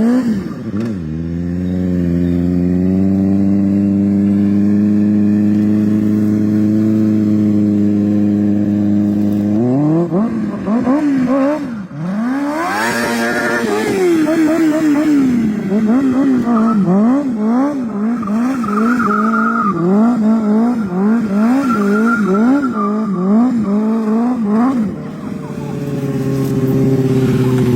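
Motorcycle engine running at a steady pitch, then revved up and down over and over in quick swings for about fifteen seconds, then settling back to a steady note near the end.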